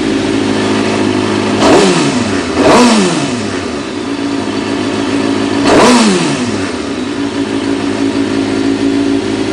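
2005 Suzuki GSX-R600's inline-four engine idling, blipped three times, about two, three and six seconds in, each rev rising quickly and falling back to idle. It runs smoothly with no odd noises, which the owner takes as the sign of a healthy engine.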